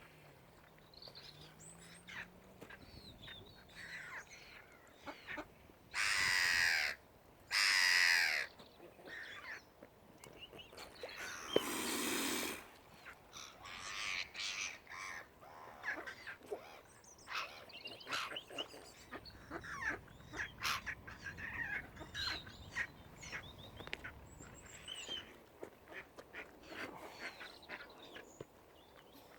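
A flock of waterfowl calling: many short duck-like calls overlapping, with two louder, harsh calls about six and eight seconds in.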